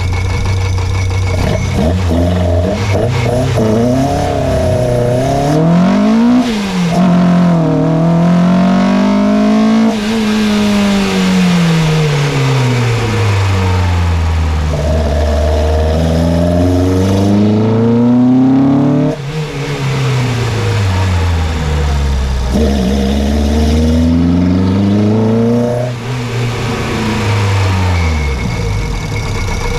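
Peugeot 205 Rallye's 1.3-litre four-cylinder engine revving up and down. It starts at a steady idle, then makes several long climbs in pitch, each cut off suddenly, with smooth falls between, and drops back to idle near the end.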